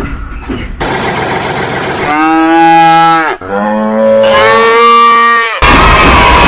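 A cow mooing: two long calls, one right after the other, the second ending abruptly about five and a half seconds in, when a loud, dense noise takes over.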